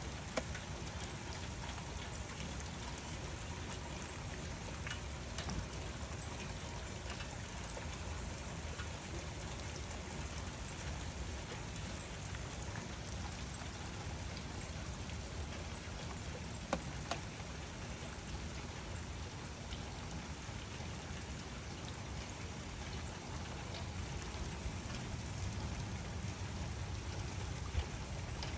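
Steady rain falling, with a few sharper drips near the start, in the middle and near the end.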